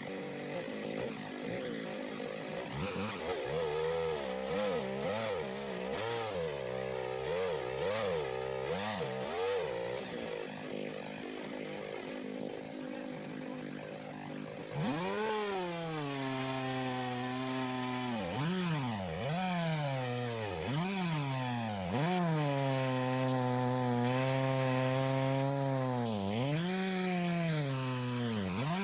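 McCulloch 610 two-stroke chainsaw with a 20-inch bar, ripping a log lengthwise in a chainsaw mill. Its engine pitch sags and recovers over and over as it bogs under the load. The bar is barely long enough for a log this wide.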